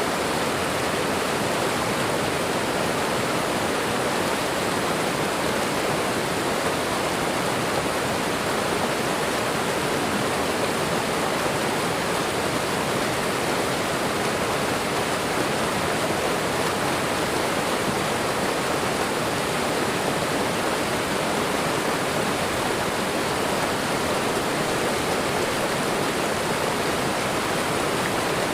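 Waterfall and running water rushing steadily, an even unbroken roar of falling water.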